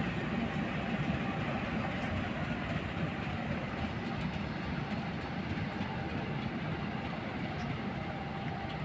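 Train running on the track: a steady rumble with a faint, steady high hum.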